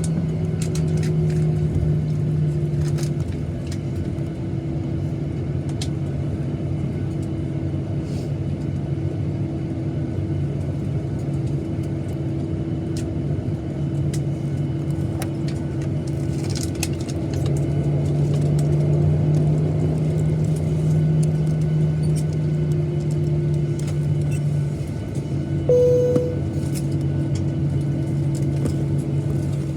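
Steady cabin rumble of a Boeing 737-900ER's CFM56 jet engines at low taxi power, heard from inside the cabin, with a low steady hum and a few faint clicks. A short, clear tone sounds briefly near the end.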